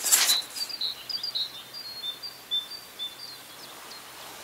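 Small birds chirping: a quick run of short, high chirps over the first three seconds or so, fading near the end, over a faint steady outdoor hiss. A brief rush of noise comes right at the start.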